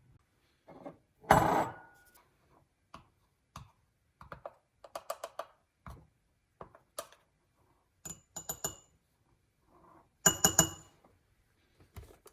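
Kitchen clatter: a string of separate knocks and clinks of dishes and utensils, with a couple of louder hits about a second in and near the end, some ringing briefly like metal or ceramic struck.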